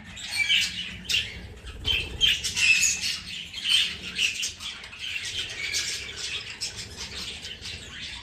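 A group of budgerigars chattering and chirping, many short high calls overlapping without a break.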